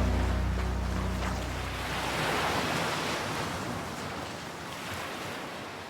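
Ocean surf breaking and washing up the beach, one swell building about two seconds in and a smaller one later, as the last notes of background music die away in the first second or so; the surf fades down near the end.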